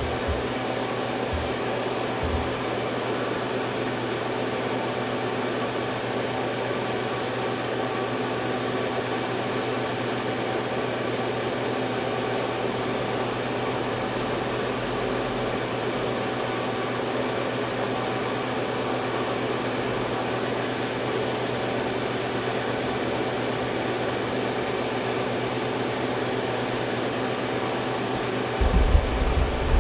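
Cooling fans of a 12 V 3000 W low-frequency inverter and of two electric space heaters running steadily together, a constant whooshing hum with several steady tones in it, while the inverter carries a near-maximum load of about 2900 W. A few low bumps come near the end.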